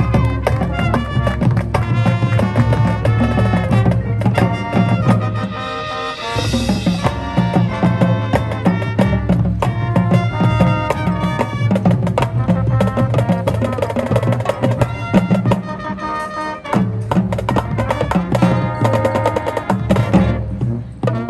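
High school marching band playing its show music: brass and woodwinds holding chords over drumline percussion hits.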